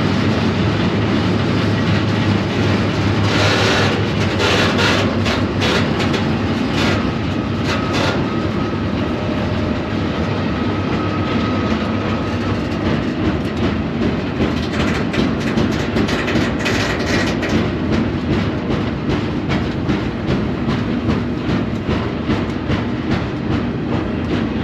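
Freight train rolling along, heard from aboard a car: a steady loud rumble and rattle of wheels and car body, with clusters of sharp clicking and clatter over the rail joints a few seconds in and again past the middle.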